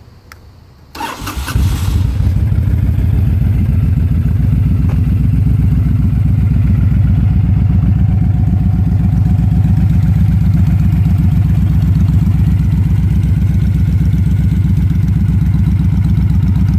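Honda VTX1300C's V-twin engine, fitted with an aftermarket Vance & Hines exhaust and a re-jetted carburettor, starting up about a second in and catching almost at once, then idling loudly and steadily with an even, lumpy beat.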